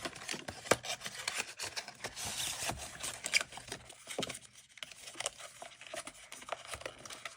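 Hands handling box contents and packaging: rubbing and scraping with small taps and clicks, busiest a couple of seconds in.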